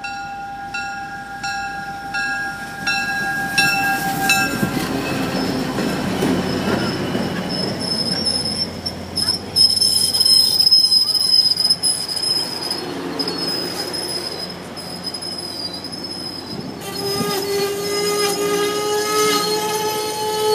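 MBTA commuter train led by an EMD F40PH-2C diesel locomotive passing close by. A bell rings about twice a second as it approaches. Then come the locomotive and the rolling coaches, with a high steel wheel squeal from about nine seconds in and a lower squealing tone near the end.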